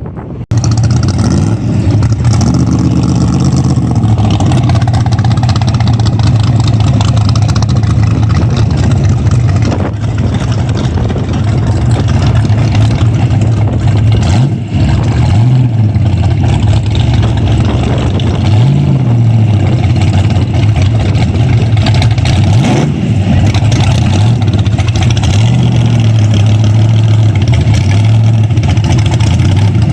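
Car engine idling loudly with short throttle blips, the pitch briefly rising and falling back about four times in the second half.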